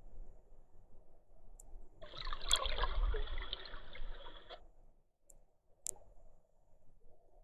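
Water trickling and splashing close to the microphone in a burst of about two and a half seconds, over a low rumble, with a few sharp clicks.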